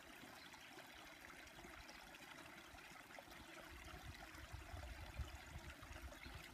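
Faint creek water running, a steady rushing hiss, with a low rumble for a couple of seconds about two-thirds of the way in.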